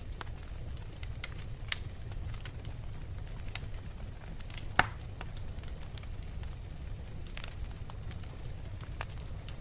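Wood fire burning in a fireplace: a steady low rumble of the flames with scattered crackles and pops, the sharpest about two seconds in and just under five seconds in.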